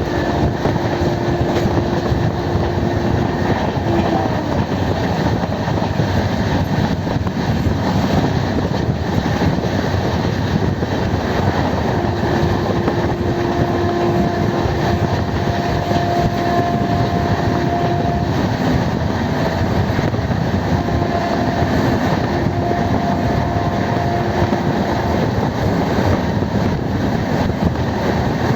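Passenger train running along the track: a steady rumble of wheels on rails, with a faint humming tone that comes and goes.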